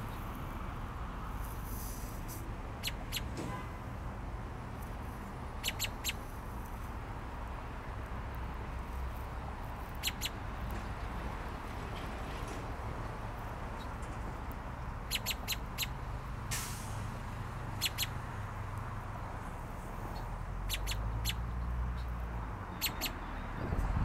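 A bird giving short, sharp, high chip calls, singly and in quick runs of two to four, every few seconds, over a steady low rumble.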